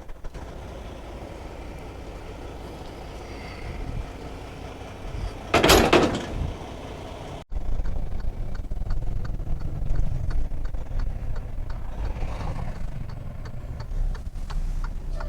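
Semi truck with its diesel engine running low, and a short, loud hiss of air about six seconds in. The sound then cuts abruptly to a louder engine rumble with light rattles, typical of the truck under way.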